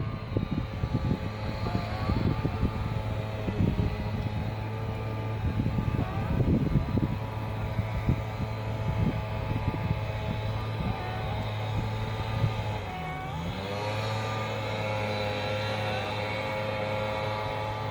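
A motor or engine running steadily with a droning hum. Its pitch drops and recovers about two-thirds of the way through, and there are scattered knocks in the first half.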